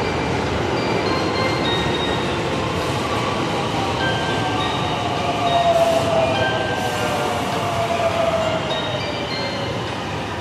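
Electric commuter train pulling away along the track: a steady rolling rumble, with a falling whine from about four seconds in to about nine seconds and short high wheel squeals here and there.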